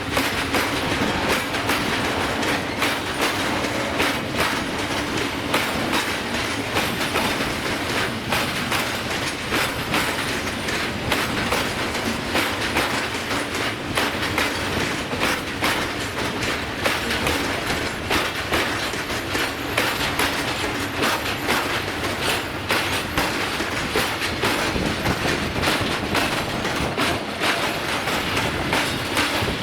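A train rolling past, its wheels clattering over the rail joints in a steady run of clicks.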